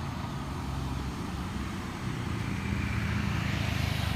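Heavily loaded truck's diesel engine labouring at low speed on a steep climb, its low steady drone growing louder from about halfway through.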